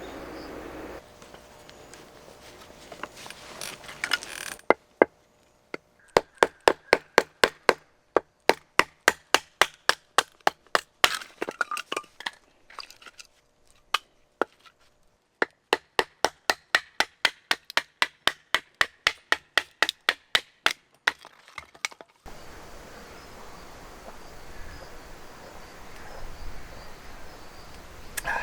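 Firewood being split into kindling: a fast, even run of sharp wooden cracks, about three a second, with two short breaks partway through.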